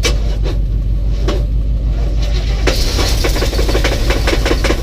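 An old 1984 box truck engine, primed with a little gasoline, catches and runs with a rapid ticking and knocking from a little past halfway. Before that come a few single clicks, all under the steady low hum of another truck idling. The owner hears more than an exhaust-leak tick in the knock and suspects a cracked or loose flywheel or torque converter.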